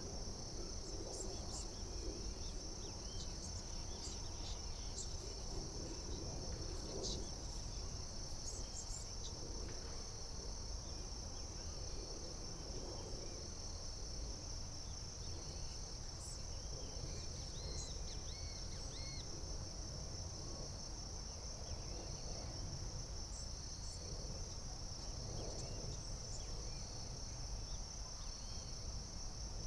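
A chorus of insects trilling steadily at a high pitch, with a few short chirps about halfway through and a steady low rumble underneath.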